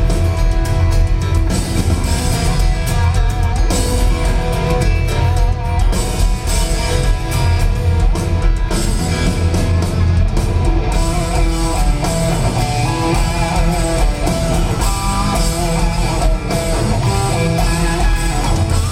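Live country band playing an instrumental break, led by guitar over bass and drums with a steady beat, loud through an arena PA.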